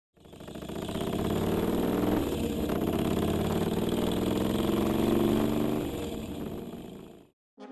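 Motorcycle engine running, fading in over about the first second, holding steady, then fading out shortly before the end.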